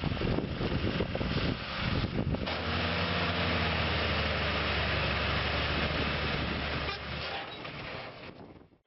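Heavy truck engine running hard. It is rough and uneven for the first couple of seconds, then settles into a steady deep drone from about two and a half seconds in, and fades away near the end.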